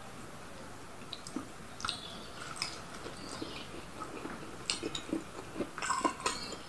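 Close-up sounds of a person eating by hand: chewing and lip smacks, with soft wet squishes as fingers work egg and rice. They come as scattered small clicks, with a busier run of smacks about five to six seconds in.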